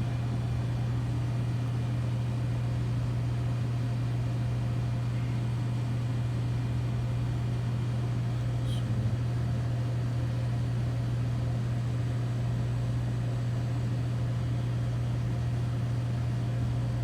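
Two-door T49 reach-in refrigerator's half-horsepower condensing unit running with a steady low hum, the unit working and pulling the cabinet temperature down.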